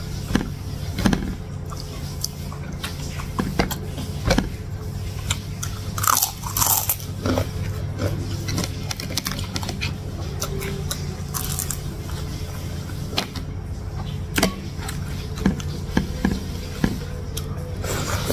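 A person chewing and biting food close to a clip-on microphone, eating rice with fried egg and salted fish by hand, with wet mouth sounds and scattered sharp clicks. A steady low hum runs underneath.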